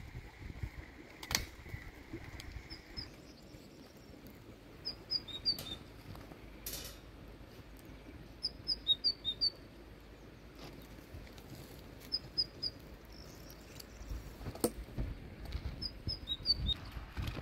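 A small bird singing a short phrase of quick high chirps, repeated about every three to four seconds. A few sharp knocks sound in between.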